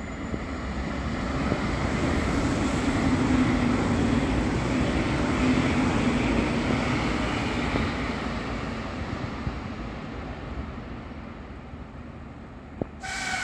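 Deutsche Bahn ICE 3 high-speed train running through the station; its rumble builds over the first few seconds, stays strong, then slowly fades as it draws away. Near the end a click is followed by a sudden horn-like tone that slides slightly down in pitch.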